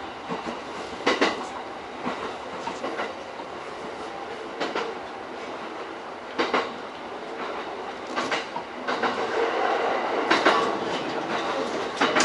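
JR E231-series electric commuter train running on the track, heard from inside the leading car: a steady rumble with sharp wheel clicks over rail joints every second or two. From about nine seconds in, the running noise grows louder.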